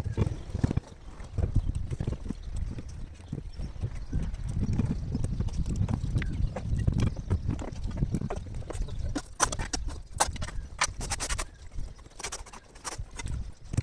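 Irregular knocks and thumps, with a run of sharper, cracking clicks about two-thirds of the way through.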